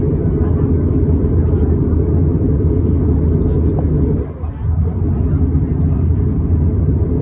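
Steady low rumble inside the cabin of an Airbus A321neo airliner, from its engines and airflow, dipping briefly about four seconds in.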